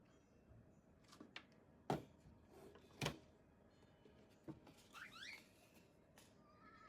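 Clicks and taps of hard plastic parts of a hair dryer being handled during disassembly or cleaning, with two sharper clicks about two and three seconds in, then a short squeaky scrape about five seconds in.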